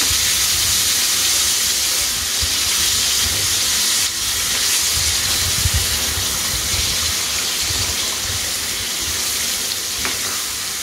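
Marinated chicken frying in a pan, a steady sizzle and hiss as the watery marinade (salt, lemon juice, yogurt) boils off, with a low rumble underneath.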